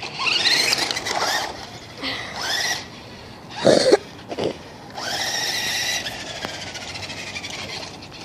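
RC car's electric motor whining in short spurts, its pitch rising as the car speeds up, then a longer run whose pitch slowly falls as it winds down. A brief loud sound comes about halfway through.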